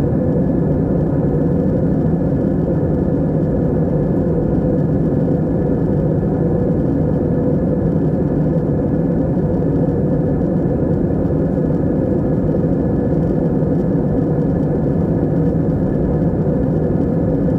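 Steady drone of an airplane cabin in flight: a constant low rumble of engines and air with an even hum near the middle, unchanging throughout.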